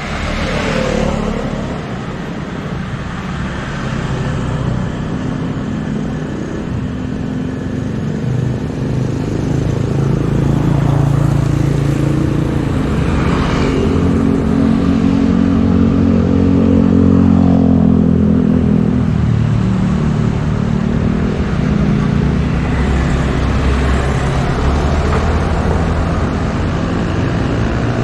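Steady engine drone over street noise, swelling through the middle and easing a little near the end.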